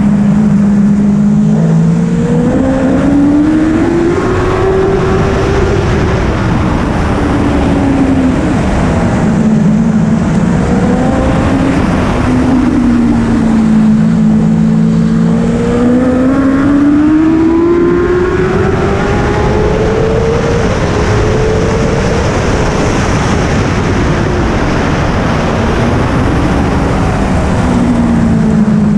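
BMW S1000RR superbike's inline-four engine on track, pitch climbing as it accelerates and falling away under braking, twice over. It rises in the first few seconds, stays low for a long stretch in the middle, climbs again and drops near the end.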